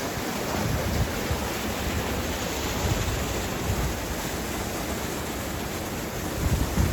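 Steady rush of cascading creek water, with low gusts of wind buffeting the microphone now and then, strongest near the end.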